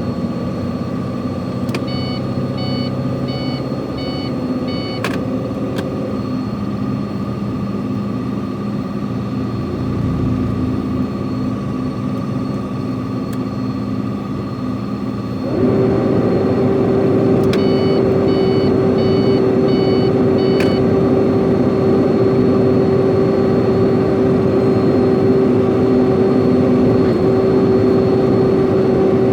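Truck engine running steadily on a downhill descent; about halfway through it steps up to a louder, higher steady note. Two short runs of quick electronic beeps sound near the start and again after the step.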